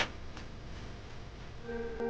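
Campfire crackling: one sharp pop right at the start, then a few faint ticks over the low noise of the fire. Near the end, several steady musical notes come in.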